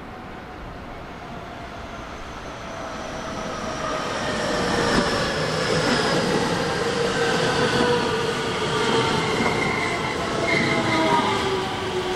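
A JR West electric multiple-unit commuter train approaches and rolls past close by, growing louder over the first few seconds. Its motor whine falls steadily in pitch as the train slows, over the rumble of wheels on the rails.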